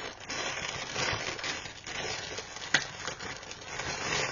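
Packaging rustling and crinkling as it is handled, with a few light clicks and knocks.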